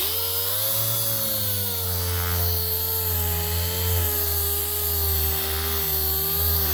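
Electric sander running on bare aluminum sheet with 1000-grit paper: a steady motor hum whose pitch wavers slightly as it is pressed and moved.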